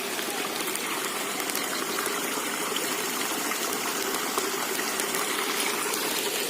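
Steady rushing of water, an even hiss with faint scattered ticks and no change throughout.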